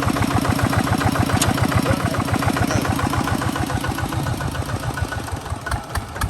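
Kubota ZT 155 DI single-cylinder diesel engine running steadily, with an even, rapid train of firing pulses.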